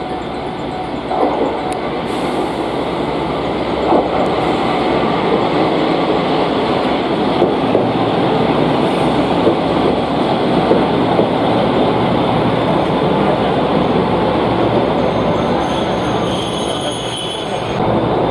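JR West KiHa 120 diesel railcar pulling into the platform: a steady engine and wheel rumble with knocks and clicks from the rails. A thin high squeal comes about three-quarters of the way in as it brakes to a stop.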